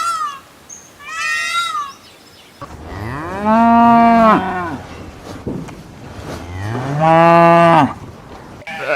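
Cow mooing: two long, low moos, each about two seconds, rising, holding and falling in pitch, a couple of seconds apart. Before them, in the first two seconds, come two short, high bleats, the end of a goat clip.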